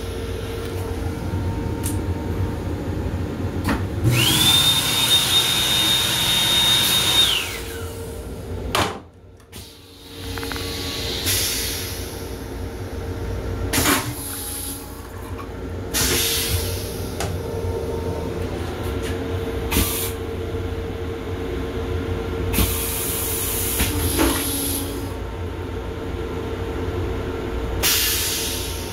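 An M7 electric railcar running, heard from inside its small restroom: a steady rumble and hum with short hissing bursts every few seconds. About four seconds in, a loud hiss with a high, steady tone lasts about three seconds, and near nine seconds the noise drops away for about a second.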